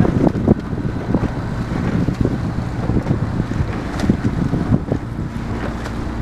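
Wind buffeting the microphone in uneven low thumps, over the rushing noise of a rowing boat moving through the water.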